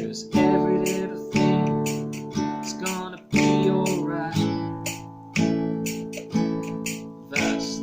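Acoustic guitar strummed slowly, one chord about every second, each left to ring and fade before the next.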